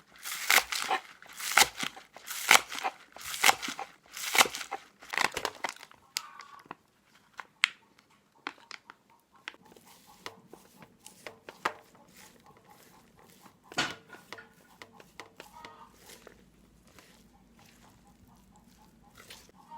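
Rhythmic scraping strokes of hand food preparation, about one a second for the first six seconds, then sparse light clicks and handling noises. Chickens cluck faintly in the background.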